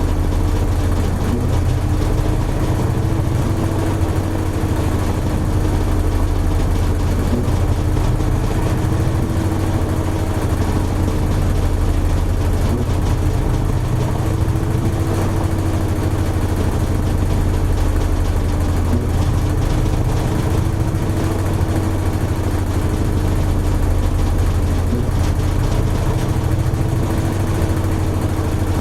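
Toshiba AW-42SEE4 fully automatic washing machine running steadily: a deep, even hum with a constant motor tone that wavers slightly in pitch.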